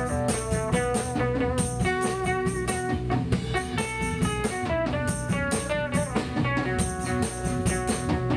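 A band playing: a picked guitar melody over drum kit and bass.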